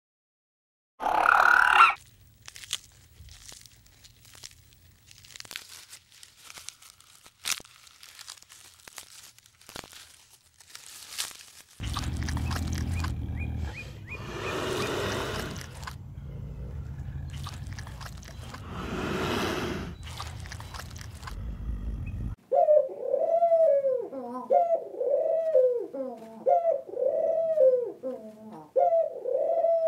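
An elephant seal calls briefly near the start. Then come quiet clicks and crunches and a low rumble with two louder calls while a leopard feeds. From about two-thirds of the way in, feral pigeons coo in a steady series, about one rolling coo a second.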